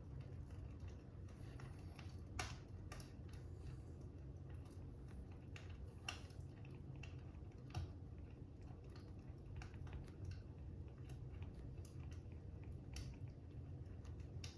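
Fire crackling: a steady low rumble with irregular sharp pops and snaps, a few of them louder than the rest.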